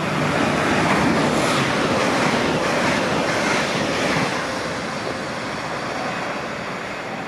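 A Lumo Class 803 electric train passing through the station at speed: a steady rush of wheels and air, loudest about a second in and slowly easing off.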